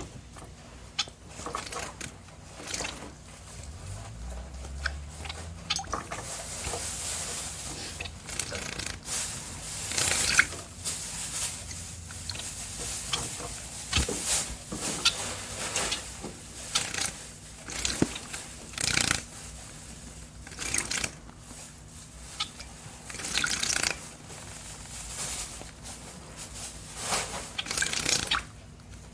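Bengalese finches bathing in water: irregular short bursts of splashing and wing-fluttering, with quieter gaps between them.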